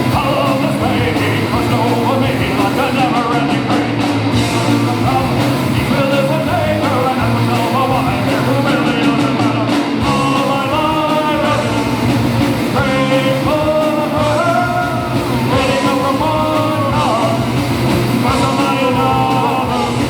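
Live rock band playing a song at full volume, with a singer's voice carrying over the instruments.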